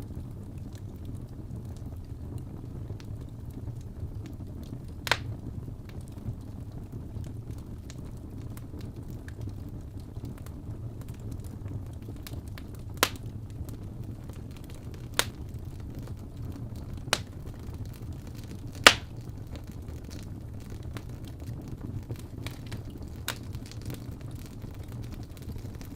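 Crackling wood fire: a steady low rumble of burning logs with an occasional sharp pop, about six in all, the loudest about two-thirds of the way through.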